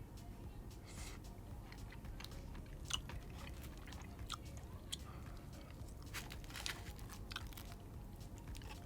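Someone chewing a mouthful of cereal-coated fried chicken, with faint crisp crunches at irregular intervals.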